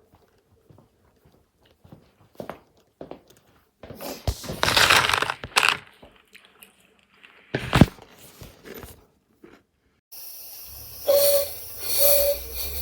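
Rustling, crinkling handling noise with scattered clicks and a sharp knock. About two seconds before the end, a steady machine hum starts.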